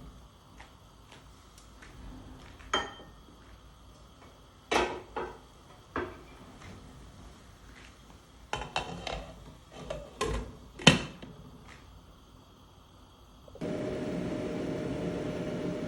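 Knocks and clatters of kitchen utensils and cookware, several separate strikes with pauses between them. Near the end a steady whirring noise with a hum starts suddenly, from a kitchen appliance.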